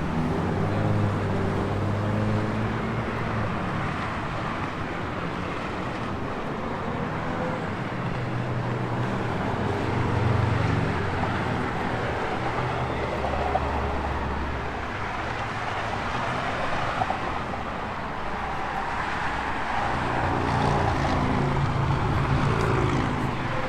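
Car engine running, its note shifting in pitch and strength several times over steady outdoor noise.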